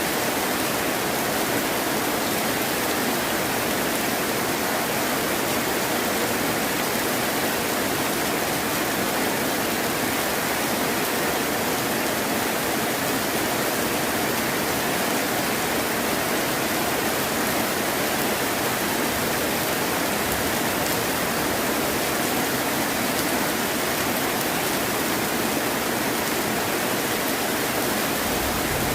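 Heavy rain falling in a steady, even hiss, with no thunder or other distinct sounds.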